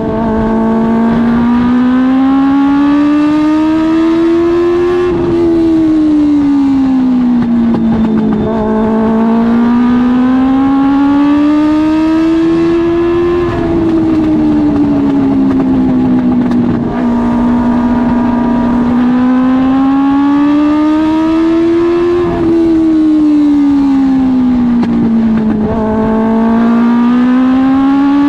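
Dwarf car's Suzuki GSX-R1000 inline-four motorcycle engine at racing speed. Its pitch climbs smoothly for several seconds under throttle, then falls off as it lifts for the turns, three times over.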